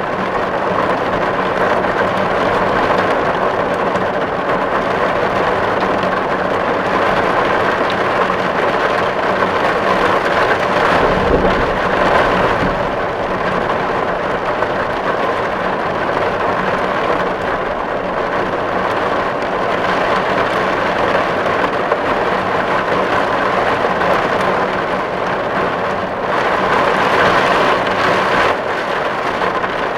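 Heavy rain drumming steadily on a tin roof, a dense patter of drops on metal. A low rumble swells briefly about eleven seconds in.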